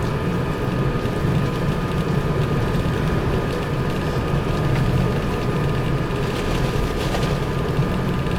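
Steady in-cabin road rumble of a Mazda 6 driving through snow on Blizzak snow tires, with its engine running and a faint steady hum.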